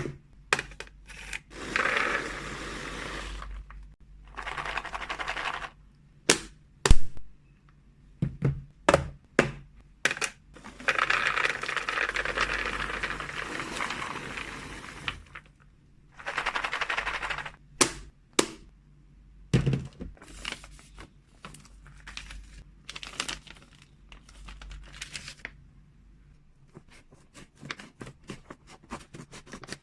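Freeze-dried cat treats and their packaging being handled and put away. Sharp clicks and knocks of containers and lids alternate with several stretches, a few seconds each, of dense rattling rustle, the longest in the middle.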